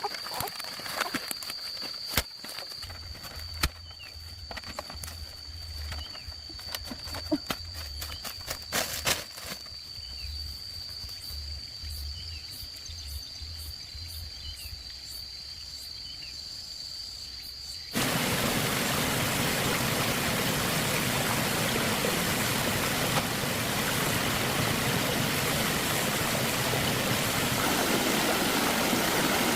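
Outdoor ambience of scattered clicks and knocks under a steady high whine and a few short chirps. About two-thirds of the way through it switches abruptly to the louder, steady rush of a flowing stream.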